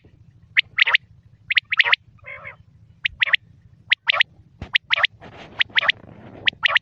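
Quail calling: short, sharp, high notes in quick groups of two or three, repeated about once a second, over a steady low hum.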